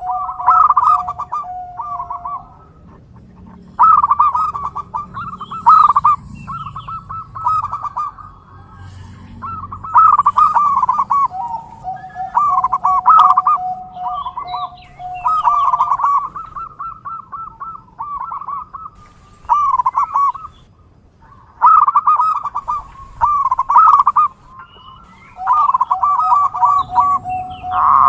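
Zebra doves (perkutut) cooing: repeated phrases of quick, pulsing coo notes, each phrase a few seconds long with short pauses between, some phrases over a lower held note.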